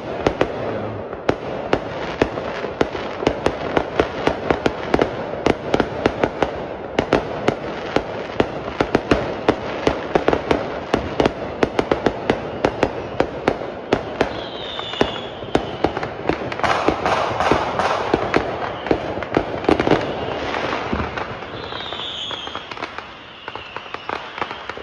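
Neighbourhood fireworks and firecrackers going off continuously, with rapid overlapping bangs and cracks, several a second, over a steady crackle. The bangs sound like guns. A couple of short high whistles come through about halfway through and near the end.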